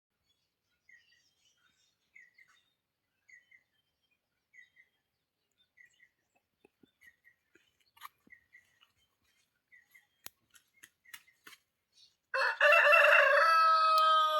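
A rooster crows once, loud and long, near the end. Before it, a small bird gives a faint, short double chirp about once a second, with a few faint clicks.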